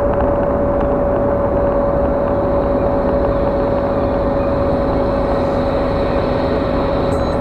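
Steady road noise inside a moving car at cruising speed, tyres and engine running evenly, with a faint steady whine of constant pitch.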